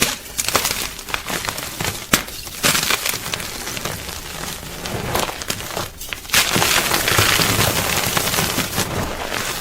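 Gym chalk crunching and crumbling: a dense run of crisp crackles and sharp snaps, thickest and most continuous from about six seconds in.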